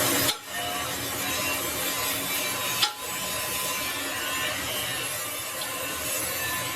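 Metal lathe cutting a steel shaft: a steady machining noise, broken by a sharp click a little under three seconds in.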